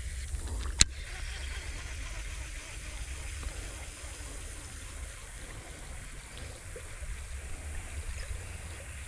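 Creek water flowing steadily over a low rumble, with one sharp click about a second in.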